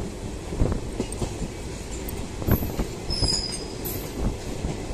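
Freight train's covered wagons rolling past, their wheels knocking irregularly over the track. A thin, high-pitched wheel squeal comes in about halfway through and fades out near the end.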